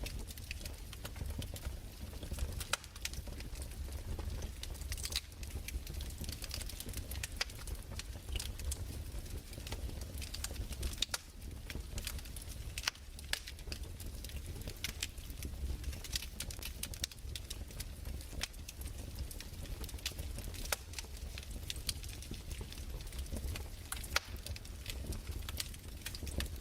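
Crackling fireplace: irregular sharp pops and snaps over a low steady rumble.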